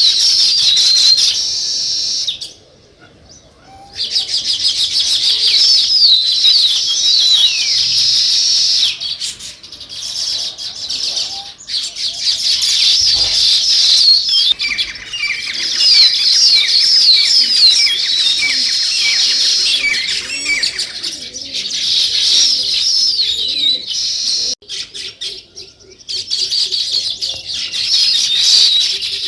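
A flock of small birds, sparrows or weaver birds, chirping in a dense chorus of many quick overlapping chirps, dropping away briefly a few times.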